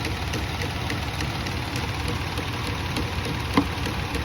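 2017 Kia Sorento's V6 engine idling, with one sharp tap about three and a half seconds in: a part under the hood is being tapped to provoke an intermittent cylinder 6 misfire (code P0306).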